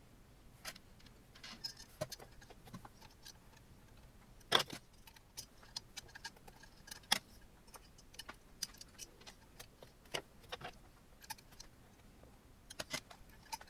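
Scattered light clicks, taps and small metallic rattles from handling screws, a hex key and printer parts during assembly of an Ender 3 Pro 3D printer. There is a sharper knock about four and a half seconds in and another about seven seconds in.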